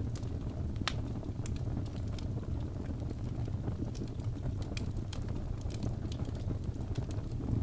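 Wood fire burning in a fireplace: a steady low rumble of flames with scattered, irregular sharp crackles and pops from the burning wood.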